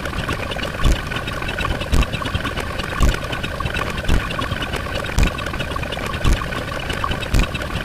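Steady machine-like running noise, a dense rapid clicking over a steady hum, with a low thump about once a second.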